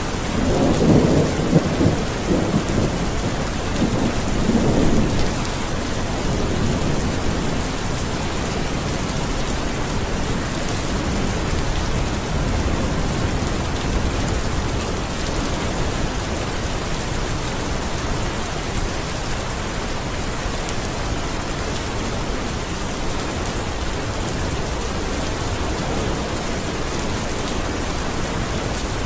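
Steady, heavy rain falling, with a low rumble of thunder rolling through the first five seconds or so.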